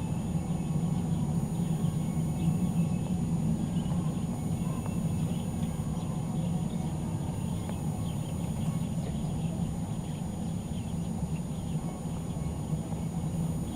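Faint, scattered chirps of small birds feeding, over a steady low rumble.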